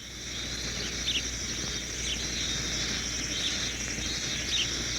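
Forest ambience: a steady high-pitched insect trill fades in at the start, with short chirps repeating about once a second over it.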